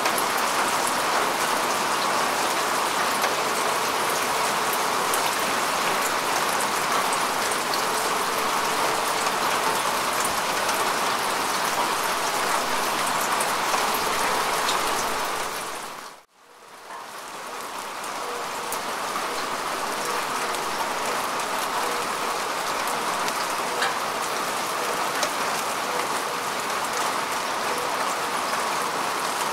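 Steady rain falling on grass and earth, a dense patter of drops. About halfway through it fades out to near silence for a moment, then swells back in over a couple of seconds.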